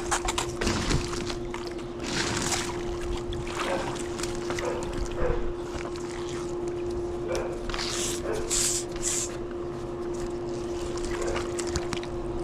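Water sloshing and splashing as a pool vacuum hose is fed under the surface to fill it and push the air out, with a brief louder splash about two-thirds of the way through, over a steady hum.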